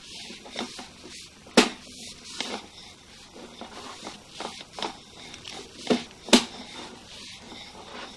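Sewer-scope push cable being pulled back through the drain line, giving scattered clicks and knocks over a faint hiss. The loudest knock comes about a second and a half in, and two more come close together near the end.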